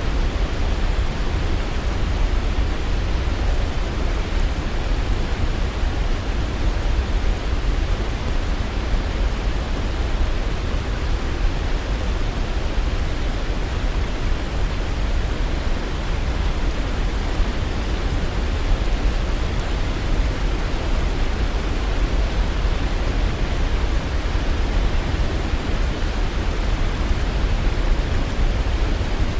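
Waterfall: a steady, unbroken rush of falling water, heavy with deep rumble.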